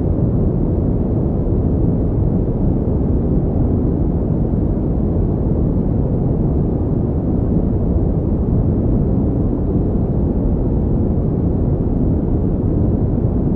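Steady pink noise played as a sleep and focus aid: an even, unchanging rush, deep and dull with little hiss in the highs.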